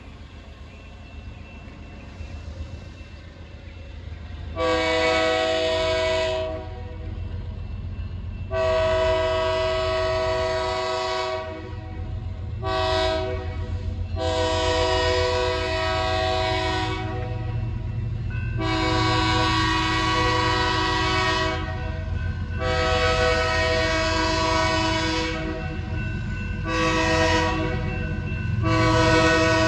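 A BNSF freight locomotive's multi-chime air horn sounding the grade-crossing signal twice over, long, long, short, long, with the diesel engines and train rumbling underneath and growing louder as it approaches.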